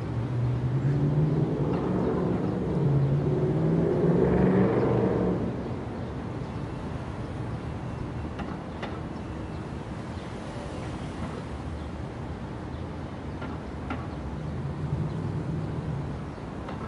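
Road traffic passing: engine hum and tyre noise over a steady background. One vehicle swells past in the first few seconds, then it is quieter until another engine sound builds near the end.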